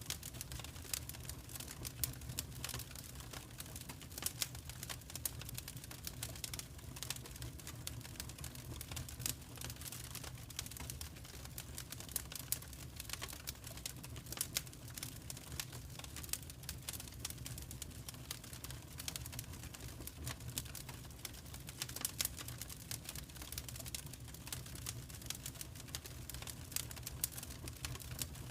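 Wood fire in a fireplace crackling: a steady low rumble of the flames under a dense stream of small irregular crackles and occasional louder pops.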